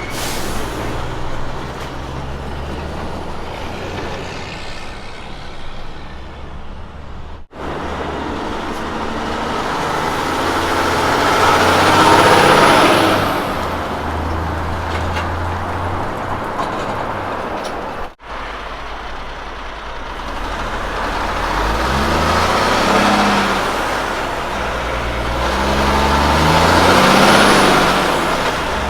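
Heavy diesel road trains driving past in three separate shots. The engine hums under tyre and trailer noise that swells as each truck passes, loudest about twelve seconds in and again near the end. In the last shot the engine pitch climbs in steps as the truck accelerates through its gears.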